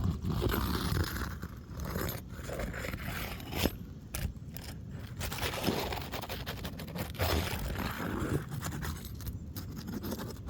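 Metal roof snake scraping and prying under old asphalt shingles, breaking the seal between the rows in irregular gritty strokes, with a sharp click about three and a half seconds in.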